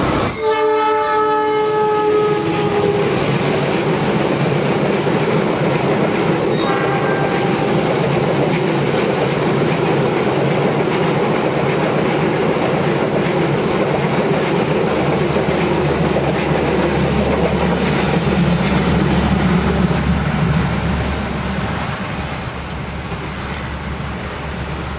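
Fajar Utama Solo passenger train sounding a long horn blast as it comes in, then a short second toot, then its coaches passing close with a steady rumble of wheels on the rails that fades as the train runs off round the curve.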